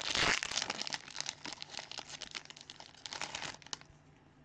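Plastic wrapping of trading-card packaging crinkling and tearing as it is ripped open, loudest in the first second, then lighter crinkles that stop nearly four seconds in.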